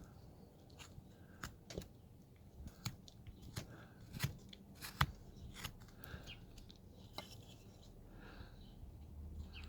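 Hand wood-carving blade slicing and snipping into wood: a string of short, sharp cut sounds at uneven intervals, the loudest about five seconds in.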